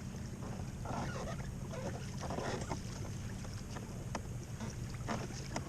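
Small waves lapping and splashing against a kayak hull, with scattered light clicks and knocks over a steady low rumble.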